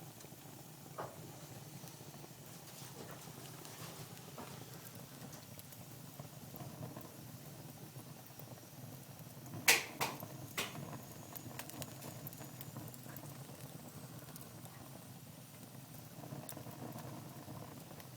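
Wood fire burning in a fireplace, crackling with scattered small pops over a low steady hiss, and three sharp, loud pops in quick succession about ten seconds in.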